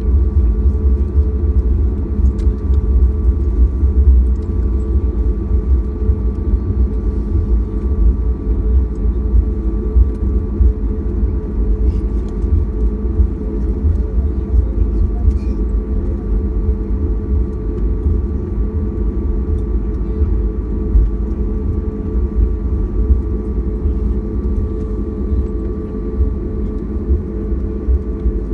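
Cabin noise inside a Boeing 737-800 taxiing after landing: a steady low rumble with a thin steady whine from its CFM56 engines running at idle.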